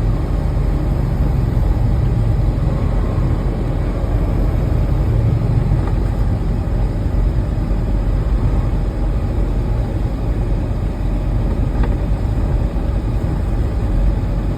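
Steady engine and road noise inside the cab of a moving semi truck, a constant low rumble with no breaks.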